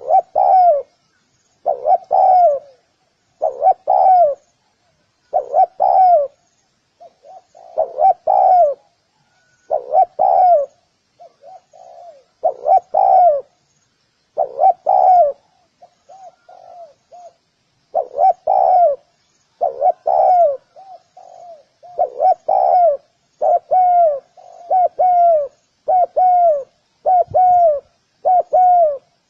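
Spotted dove cooing: its repeated phrase of a few soft, down-slurred coos, given over and over. Quieter short coos fill some gaps, and the phrases come faster, about one a second, in the last third.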